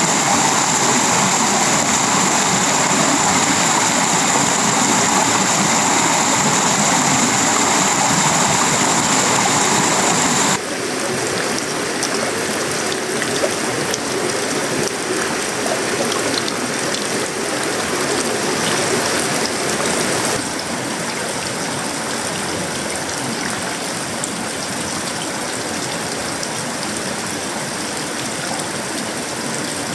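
Heavy tropical rain falling on a sheet-metal roof, wood and leaves: a steady dense hiss. The sound changes abruptly about ten seconds in, losing its high hiss, and again about twenty seconds in, each time a little quieter.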